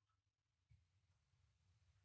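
Near silence: faint room tone between sentences of speech.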